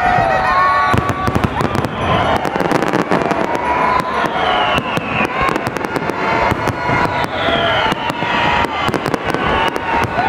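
Fireworks display going off: a dense, continuous run of bangs and crackles with no pause.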